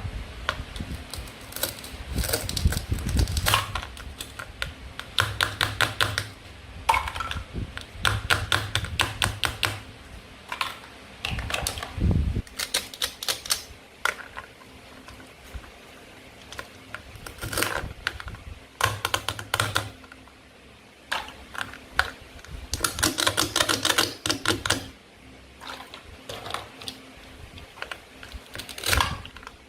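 Toy play food being handled and cut: bursts of rapid, light clicks and taps of plastic or wooden pieces, with short pauses between the bursts.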